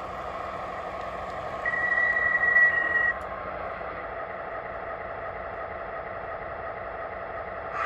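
O gauge model diesel switcher locomotive running, its sound system giving a steady diesel engine rumble. A single high, steady squeal sounds for about a second and a half, starting nearly two seconds in.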